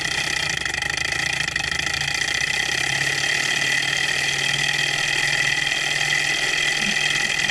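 Small alcohol-fired Stirling hot-air engine running steadily while it drives a little generator, a constant mechanical whir with a steady high whine.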